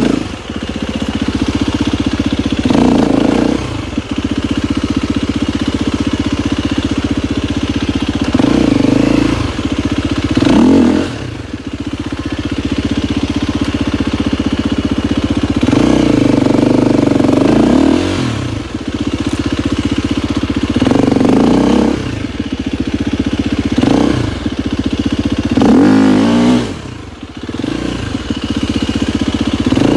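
KTM 250 XCF-W's single-cylinder four-stroke engine running, the throttle opened in short revving bursts every few seconds between steadier running.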